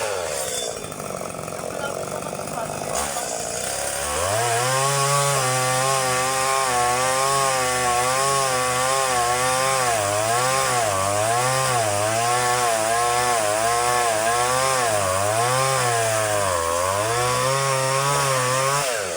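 Two-stroke chainsaw cutting date palm. The engine eases off at the start, revs up about four seconds in and holds high speed with its pitch wavering under load, then drops off near the end.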